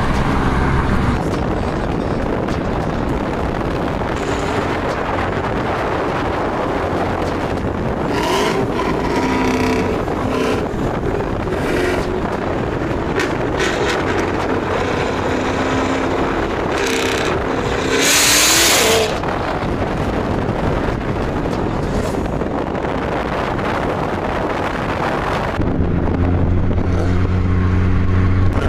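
Dodge Hellcat muscle cars' supercharged V8 engines running as the cars drive along a road, mixed with road and wind noise. A brief, very loud burst of noise comes about 18 seconds in. Near the end a steady engine drone takes over.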